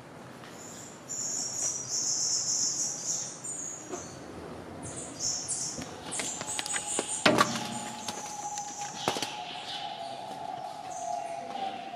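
Small birds chirping in short, high, quick bursts, with a few sharp clacks about halfway through as the plastic strip curtain of a greenhouse doorway is pushed aside.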